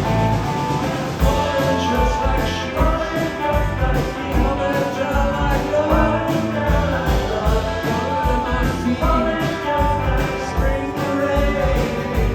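Live rock band playing a song, with guitars, bass and drums keeping a steady beat.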